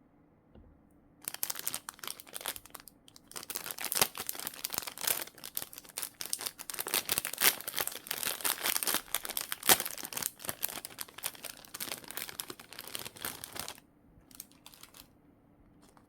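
Plastic packaging crinkling as it is handled and unwrapped: dense crackling starts about a second in, runs for some twelve seconds with a brief pause early on, then gives way to a few short crinkles near the end.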